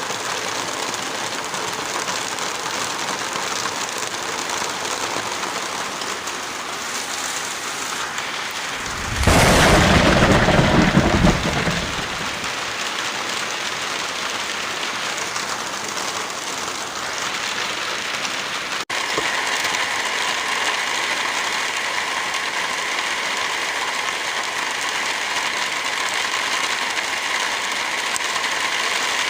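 Heavy rain falling as a steady hiss. A thunderclap rumbles loudly for about two to three seconds, starting about nine seconds in. After a brief cut in the sound a little past the middle, the rain goes on with a slightly brighter, different texture.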